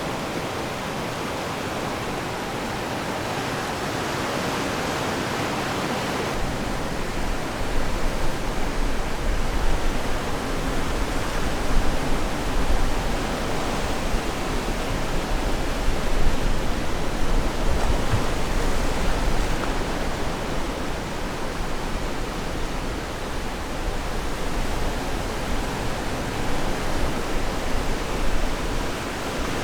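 Ocean surf washing on the shore: a steady hiss of waves. About six seconds in, a deep rumble joins it and the level starts to swell and ebb with the waves.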